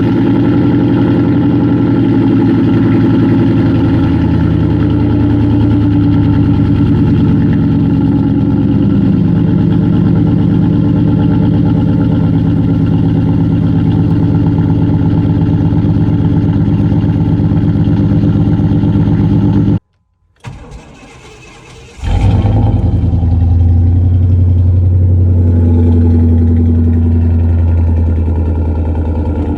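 Chevy 350 (5.7 L) small-block V8 running at a fast cold idle just after a cold start, its exhaust loud and deep through straight pipes in place of the catalytic converters and a Flowmaster Super 10 muffler. About 20 seconds in the sound cuts out for about two seconds, then the engine is heard running again.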